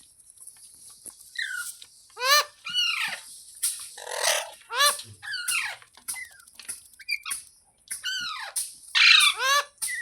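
Pet green parrot giving a series of short, harsh calls, each arching up and then down in pitch, a second or so apart in loose bunches, with one rougher screech about four seconds in.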